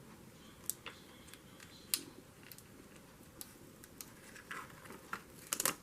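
Light handling of sticker sheets and paper on a craft table: scattered small clicks and taps, a brief rustle about four and a half seconds in, and a quick run of clicks near the end.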